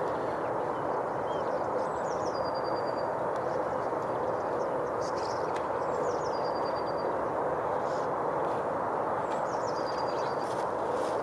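A small bird sings the same short, high phrase three times, a quick falling note and then a rapid trill, over a steady low rushing background. A few faint clicks are scattered among them.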